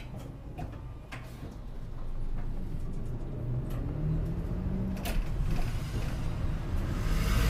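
Route bus heard from inside the passenger cabin while it drives between stops: the engine note grows louder about two seconds in and rises in pitch as the bus picks up speed, with scattered clicks and rattles from the cabin fittings.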